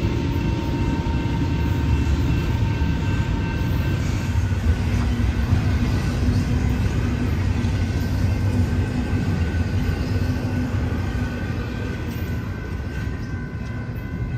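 Double-stack container freight train rolling past: a steady rumble of steel wheels on rail, with faint thin high tones over it, fading a little near the end as the train moves off.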